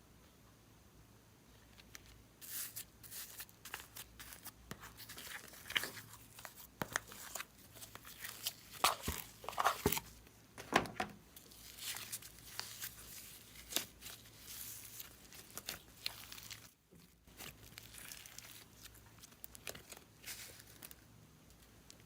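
Plastic crinkling and tearing close up, in irregular crackles and rustles that start about two seconds in and die away near the end, thickest around the middle.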